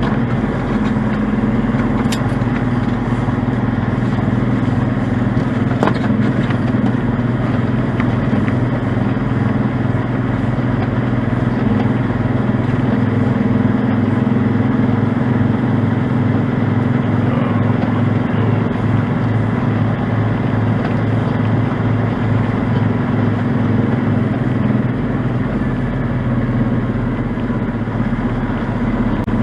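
A large engine running steadily at idle, a loud, even, low drone with no change in speed.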